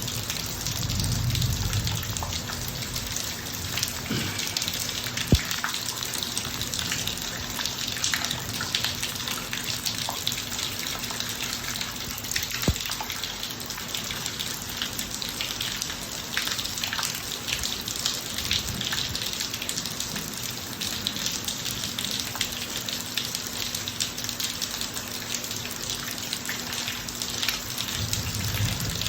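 Steady rain falling on a driveway, an even hiss with scattered sharp drop impacts.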